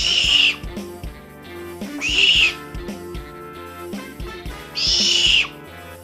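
An owl calling three times, each a high, harsh call lasting about half a second, over background music with a steady beat.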